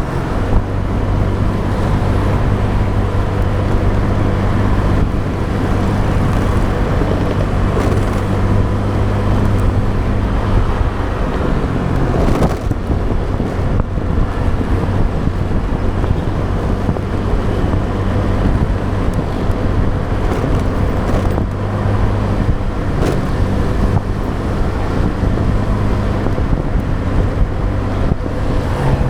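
Motorbike engine running at a steady pace, with wind and road noise on the action camera's microphone and passing traffic. The engine's steady hum fades about twelve seconds in and comes back later.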